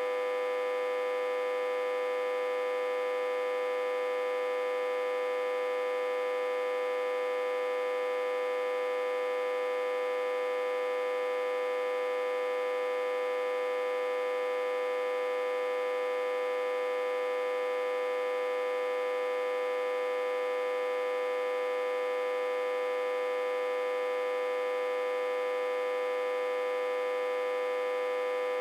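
Autotransformer humming steadily, a mid-pitched electrical hum with many overtones that never changes. It is running reverse-connected to a step-down transformer at about 60–80 V input.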